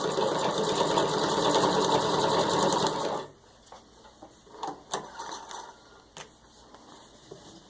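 Antique 1923 Singer 127 vibrating-shuttle sewing machine, driven by a treadle, stitching through six layers of denim with a fast, steady clatter. It stops abruptly about three seconds in, and a few light clicks and knocks follow.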